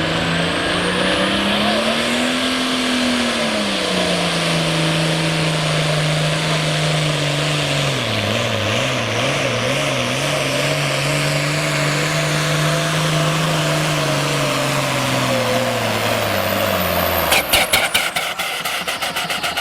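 A 466 Hot Farm class pulling tractor's diesel engine running flat out under load as it drags the sled. The engine note rises and falls once, wavers unsteadily partway through, then sags and cuts off suddenly near the end, followed by a rapid clatter of sharp clicks.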